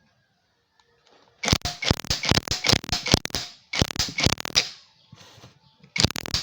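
Ratchet clicking rapidly in three bursts as the puller is tightened to draw a stuck outboard propeller off its shaft.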